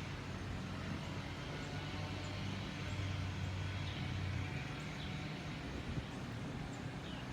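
Jet aircraft passing overhead: a steady low engine rumble. Faint bird chirps come through every second or so.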